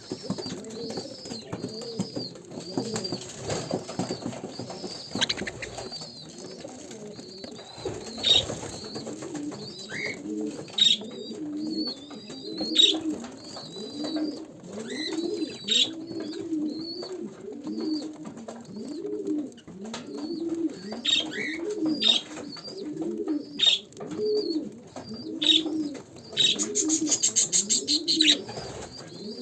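Birds calling: a low cooing call repeats about once a second, with higher chirps and short sharp calls over it. Near the end comes a fast chattering run.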